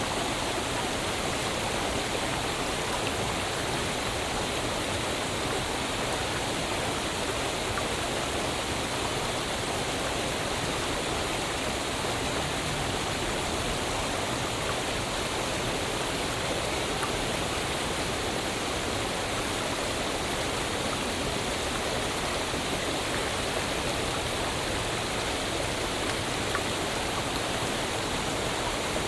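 Waterfall: water rushing steadily, an even hiss with no separate splashes, pauses or changes.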